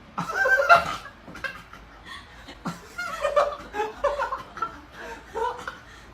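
A person chuckling and snickering in short, scattered bursts.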